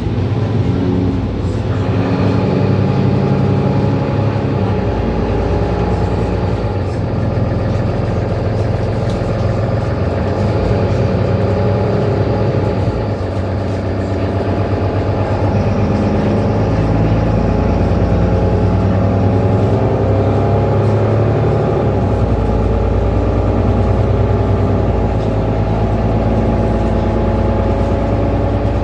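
Mercedes-Benz Citaro C2 city bus engine running while the bus drives, its pitch stepping up and down several times.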